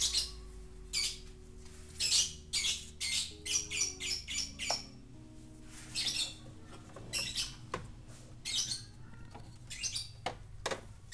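Small birds chirping in many short, irregular high calls, over faint music with long held low notes.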